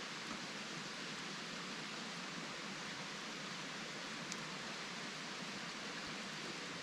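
Steady, even outdoor hiss with no distinct events, and one faint tick about four seconds in.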